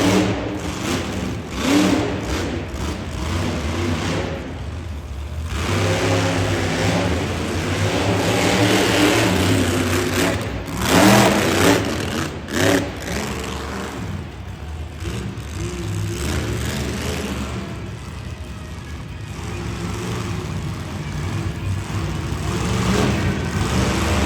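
Monster truck engine revving hard and dropping back repeatedly, with its loudest bursts about halfway through.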